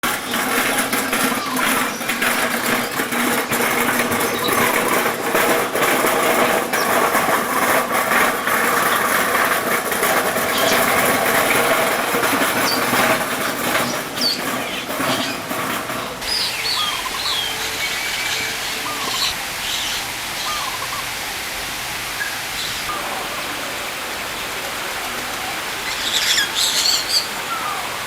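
Small birds chirping, short rising and falling calls scattered through the second half with a cluster near the end. For the first half they sit under a louder, busy background of noise and clatter.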